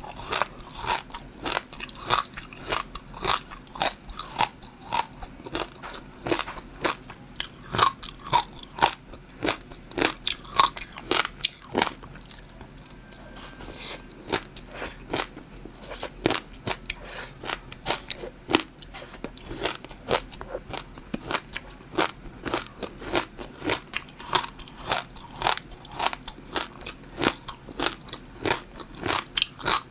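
Close-miked eating: a person biting and chewing, with many short sharp clicks a few times a second and a brief lull about halfway through.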